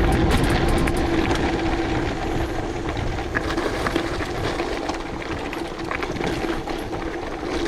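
Gravel bike riding over a rough gravel road: tyres crunching over loose stones with a steady hum and constant small rattles, and wind rumbling on the action camera's microphone, strongest in the first couple of seconds.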